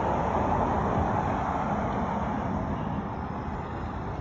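Road traffic noise, a vehicle passing and fading away about three seconds in.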